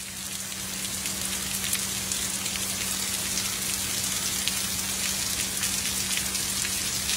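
Heavy rain pouring down in a steady, dense hiss of drops, swelling in over the first second. A steady low hum runs underneath.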